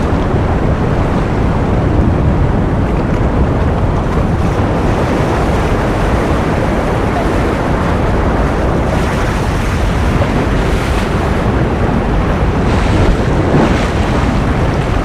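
Steady, loud rushing ocean surf noise, an even wash with a few gentle swells of hiss.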